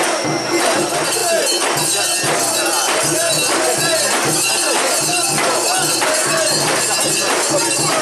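Crowd of mikoshi bearers chanting in rhythm as the portable shrine is carried, with its metal fittings jingling and clanking about twice a second in time with the shaking.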